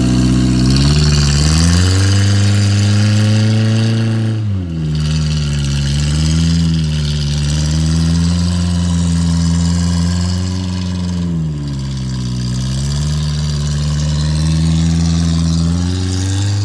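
Off-road 4x4's engine revving hard, its pitch climbing and held high, dropping sharply about four and a half seconds in and dipping again around eleven seconds before rising once more.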